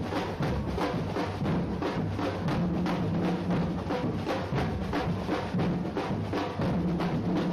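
A drum group playing a fast, steady percussion rhythm, about four or five beats a second, with deep bass drums underneath.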